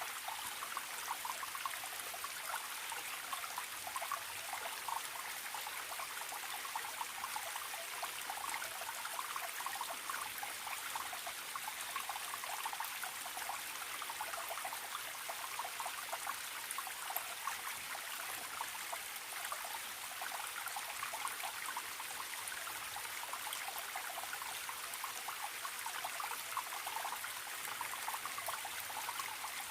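Forest stream trickling and babbling steadily, a continuous rush of water with many small splashes and no change in level.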